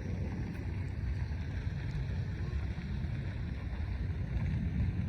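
Steady, fluttering low rumble of wind buffeting the microphone outdoors, with no distinct event.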